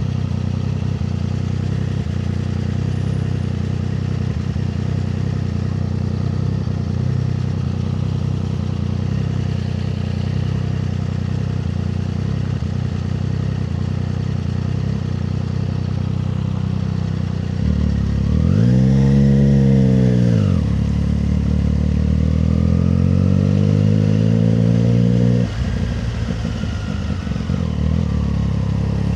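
Triumph Street Triple 765 RS inline three-cylinder motorcycle engine running steadily under way. A little past halfway its pitch rises sharply and falls back once. It then climbs steadily for about five seconds before dropping suddenly near the end.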